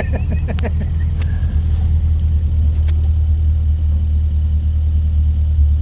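Classic car's engine running with a steady low drone, heard from inside the cabin while driving.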